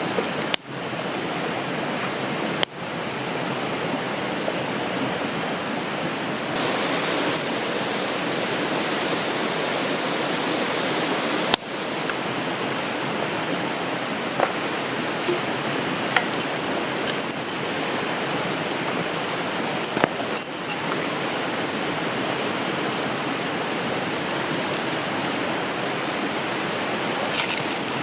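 Steady rushing of a river flowing over rocks, with a few faint ticks and clinks. The sound changes abruptly a few times.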